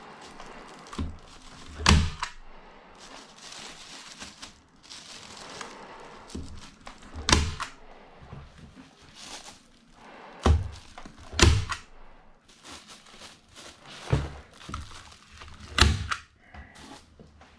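Irregular sharp thumps and knocks, about six, with rustling in between, from work fitting insulation batts into wall cavities.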